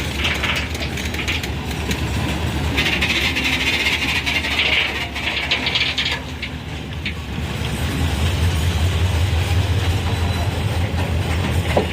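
Rail vehicle running on track: a steady low rumble with clicks, and a high hissing squeal with rapid ticks for a couple of seconds about three seconds in.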